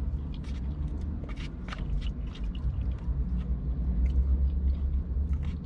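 Steady low rumble with a faint hum above it, and scattered light clicks and taps of a spoon working through a container of chili.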